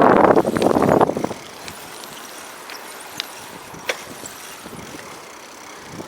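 Strong wind buffeting the microphone on a moving bicycle, cutting out about a second in. It leaves a faint steady hiss with a few light clicks and rattles.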